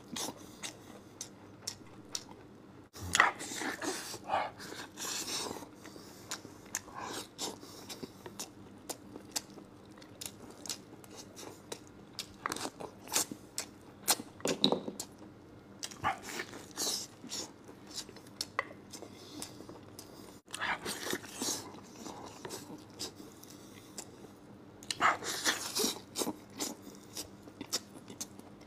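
Close-miked eating of sauced lamb ribs: wet chewing, lip smacks and biting as meat is pulled off the bone, in irregular bursts with short pauses between them.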